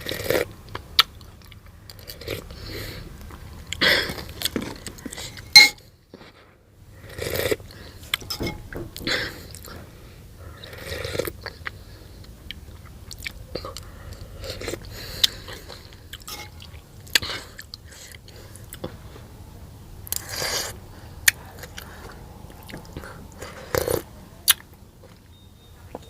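Close-miked mukbang eating: chewing with crisp, crunchy bites of pickle and noodle soup, coming in irregular bursts and clicks, with a brief pause about six seconds in.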